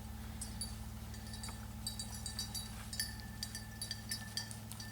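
Small bell on a hunting dog's collar jingling in irregular short rings as the dog moves, more often from about two seconds in, over a steady low hum.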